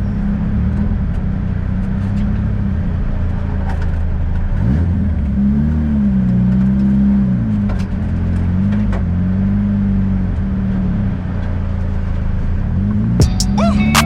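Car engine and road noise heard from inside the cabin while driving, a steady low drone whose pitch rises and falls a few times around the middle as the car speeds up and slows. Music starts right at the end.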